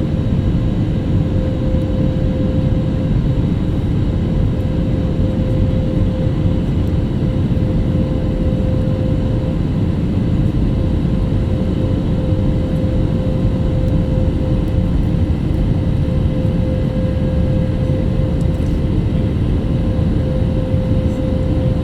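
Jet airliner cabin noise in the climb after takeoff: a steady low rumble of engines and airflow with a steady hum running through it.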